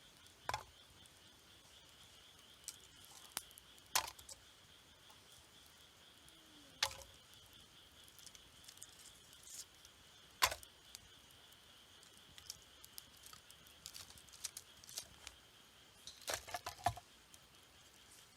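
Wood campfire crackling, with sharp pops and snaps every few seconds and a cluster of them near the end.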